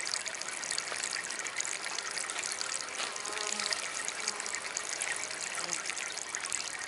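Water from a small DIY fountain trickling and splashing steadily.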